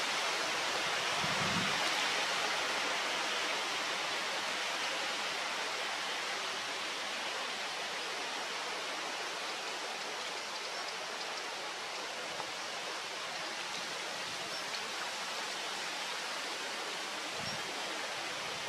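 Steady, even outdoor hiss with no distinct calls or knocks, easing off slightly over the stretch.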